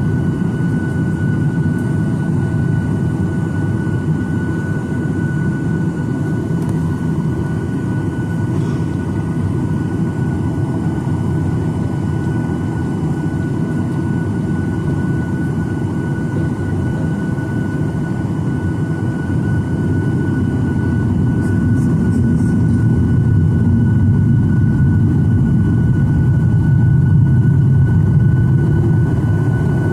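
Cabin noise of a Boeing 737-900ER with its CFM56-7B jet engines running: a steady low rumble with a constant high whine, growing a little louder over the last third.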